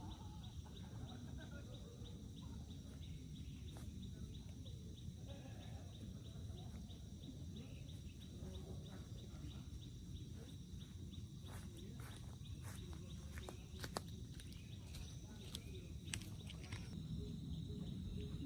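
Steady low rumble of wind and rain, with a rapid, even, high-pitched pulsing chirp running through it and a run of sharp clicks and taps in the second half.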